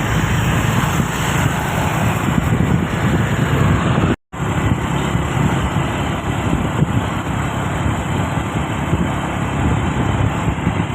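Heavy truck's diesel engine running steadily with road and traffic noise, the sound cutting out for a moment about four seconds in.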